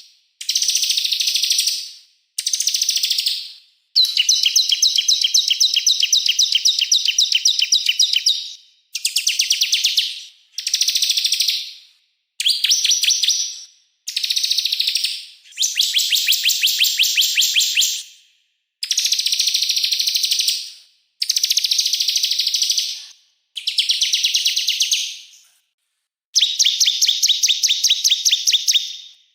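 Small songbird's song from a masteran training recording, in about a dozen bursts of very rapid, high-pitched chattering trills, each one to five seconds long, separated by short pauses. Each burst starts loud and fades toward its end.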